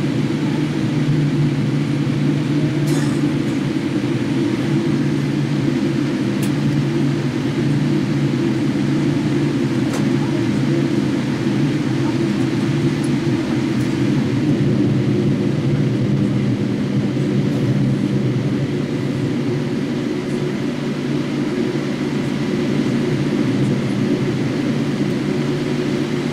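Steady low rumble in the cabin of a Boeing 787-8 airliner before take-off, from the engines and air systems running at low power. A few faint ticks are heard over it.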